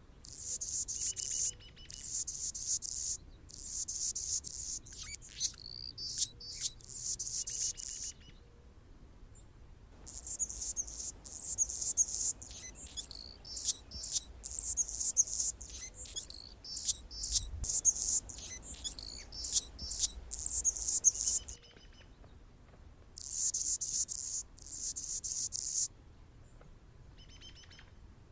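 Anna's hummingbird singing: high, scratchy, buzzy phrases mixed with thin squeaky notes. It comes in three bouts with short pauses between them, and the middle bout is the longest and loudest.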